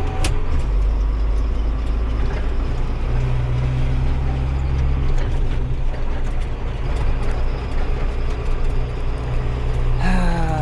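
Vehicle engine running steadily while driving along, its low note stepping to a new pitch a few times, with a sharp click right at the start.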